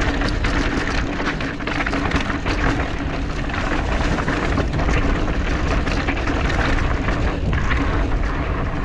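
Mountain bike riding over a rocky trail: wind buffeting the camera microphone with a steady rumble, and the bike rattling and clattering over rocks in many quick knocks.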